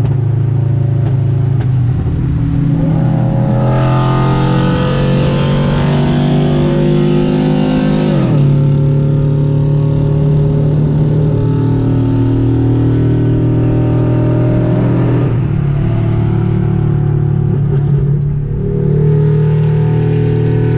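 A car engine running loudly and being revved: the pitch climbs over several seconds, drops back sharply about eight seconds in, and falls again near fifteen seconds.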